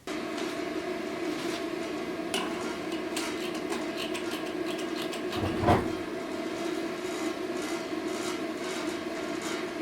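A motor-driven workshop machine starts suddenly and runs with a steady hum, with scraping streaks over it and one louder knock a little past the middle.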